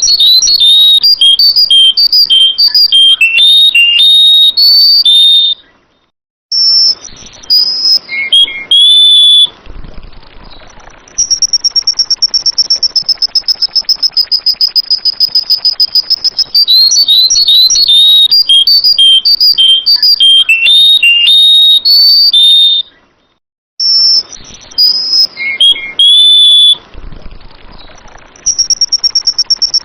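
Sooty-headed bulbul (kutilang) singing: loud runs of clear whistled notes stepping down in pitch, broken by two brief silences, with a long, fast, high-pitched buzzing trill in between. The whole sequence repeats about every 17 seconds.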